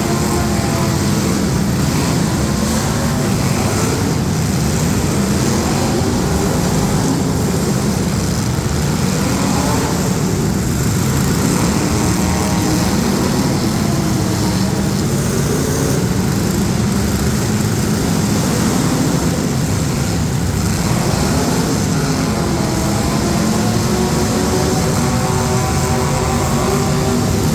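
Engines of several street-stock demolition derby cars running and revving together, loud and continuous, with pitches rising and falling as the drivers throttle up and back off.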